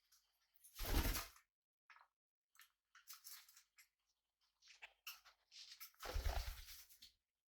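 Pet budgies and cockatiels moving about their cage: scattered short scratching and rustling, with two louder bumps, one about a second in and a longer one near the end.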